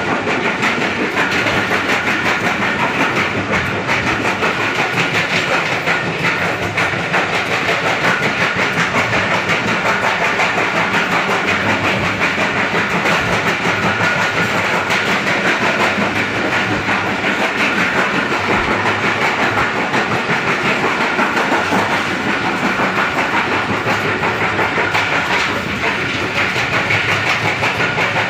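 Pakistan Railways passenger train in motion, heard from the vestibule by the carriage door: a loud, steady rush of wheel-and-track noise with a fast rattle.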